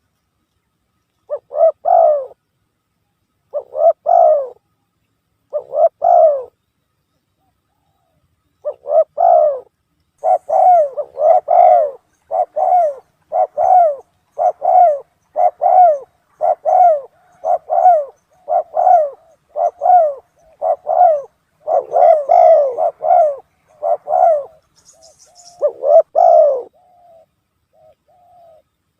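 Spotted doves cooing: three separate coos about two seconds apart, then after a short pause a long run of quick, closely spaced coos, with a few faint high chirps over them.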